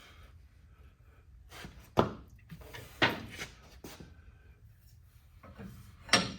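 Three sharp knocks from tools and parts being handled during work under a vehicle, two about a second apart and a third near the end, with a few lighter clicks after the second.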